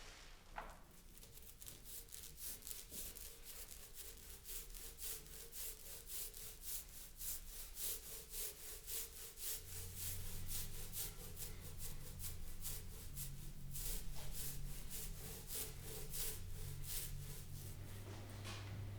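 Repeated hand strokes on a wooden speaker cabinet, rubbing or scraping at about two to three strokes a second, as in hand sanding or scraping the surface. A low steady hum comes in about halfway.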